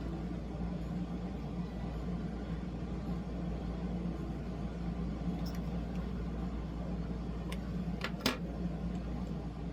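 Steady low background hum, with a few small sharp clicks close together about eight seconds in.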